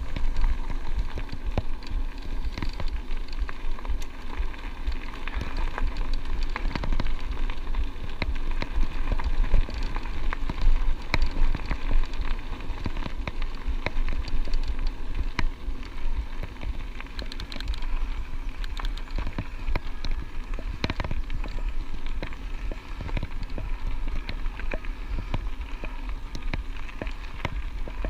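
Electric bike riding over a rough track: a steady dense crackle and rattle of tyres and bike, with wind rumbling on the microphone.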